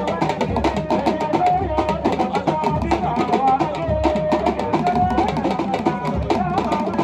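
Music: fast, dense drumming with a wavering melody line above it.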